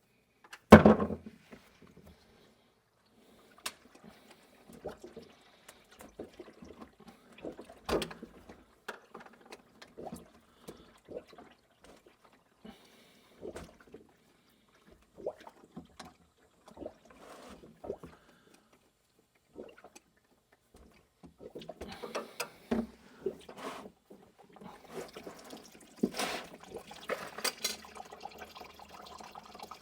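A loud knock near the start, then scattered metallic clicks and knocks of the drain plug being worked loose under the Duramax LM2 diesel's oil pan; in the last third, engine oil pours and splashes steadily into the collection pan as the crankcase drains.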